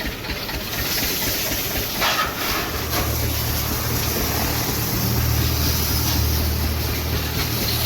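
Truck engine running with a low, steady drone that grows stronger about three seconds in, over a constant hiss.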